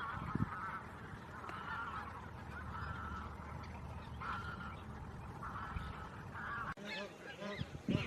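A flock of geese honking, many calls overlapping. Nearly seven seconds in, the sound breaks off suddenly and different, higher calls follow.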